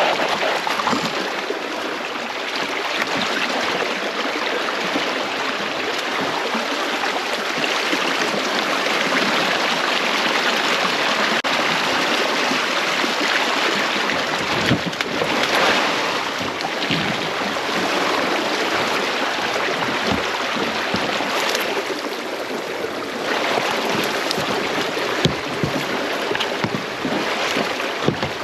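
Fast river current rushing and splashing loudly close to the microphone, around a capsized kayak caught against a fallen tree, with a few short knocks past the middle and near the end.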